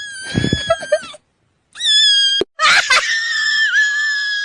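A cat screaming in long, high, drawn-out cries, three in a row, the last held for about two seconds. A low rumbling noise sits under the first cry.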